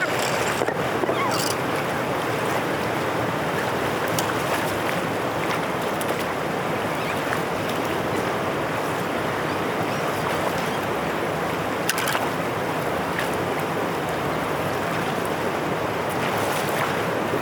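Water rushing steadily through a dam drainage outlet, a constant even wash, with one brief sharp knock about twelve seconds in.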